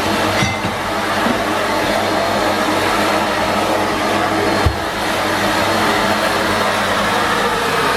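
Numatic Henry Pet vacuum cleaner running steadily, its motor hum under a constant rush of suction. Two brief knocks come through, a small one about half a second in and a sharper one a little past halfway.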